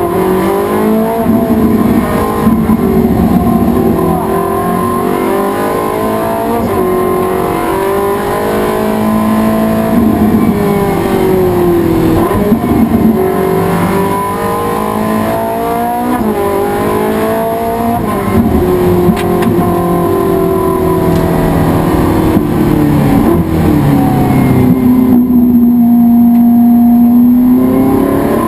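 Race car engine running hard, its revs repeatedly climbing and dropping back through gear changes and braking. Near the end the revs fall and hold low for a few seconds, then climb again.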